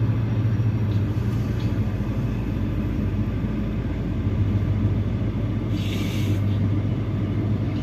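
Steady low hum and rumble of a train at a railway station platform, with a brief hiss about six seconds in.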